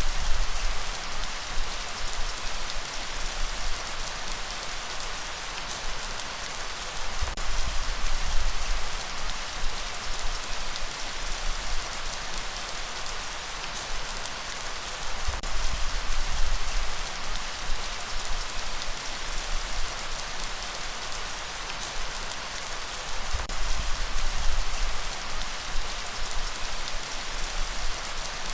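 Steady rain falling in an even hiss of drops. A low rumble swells about every eight seconds, four times in all.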